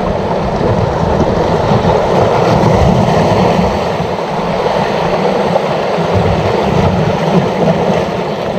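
Steady rushing of sea water washing against shoreline rocks, with wind buffeting the microphone.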